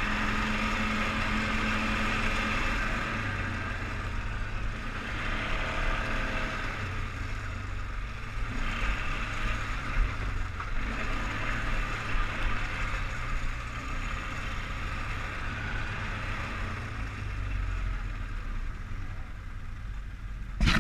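ATV engine running steadily, most likely the single-cylinder four-stroke of a 2003 Polaris Sportsman 500 HO 6x6.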